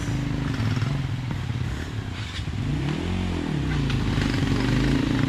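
Motorcycle engine running steadily, its pitch rising and then falling once about three seconds in.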